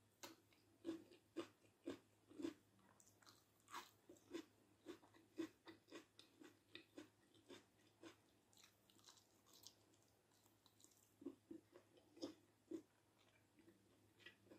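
A person chewing a mouthful of food close to the microphone: wet smacks and clicks of the mouth about two a second, softer for a few seconds after the middle and then picking up again.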